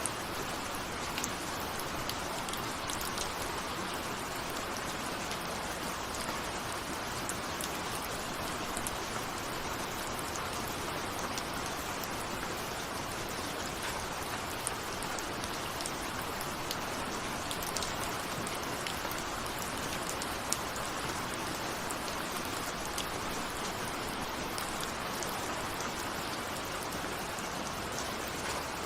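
Steady rain falling, with many small drops ticking against a window.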